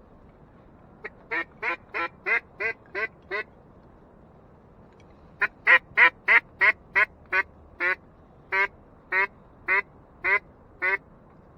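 Mallard-style duck call blown in two series of loud quacks: about eight quick evenly spaced notes, a pause, then about thirteen more that start quick and slow down toward the end. These are hunters calling to circling ducks to bring them into the decoys.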